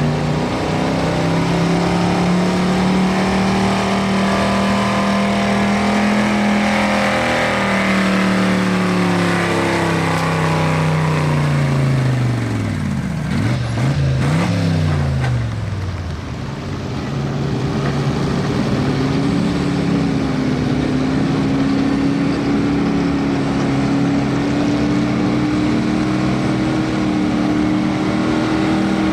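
Stock truck engines running hard on the track. Around halfway through, the engine pitch falls steeply as trucks go by close, then settles into a steady, slightly wavering drone.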